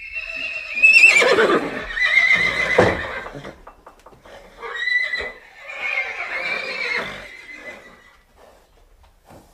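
Horse neighing: a long whinny with a high, wavering pitch, then a second, quieter whinny about five seconds in.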